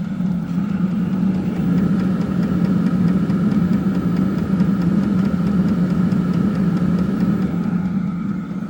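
Diesel air heater running: a steady fan and combustion hum with a faint, regular clicking from its fuel dosing pump.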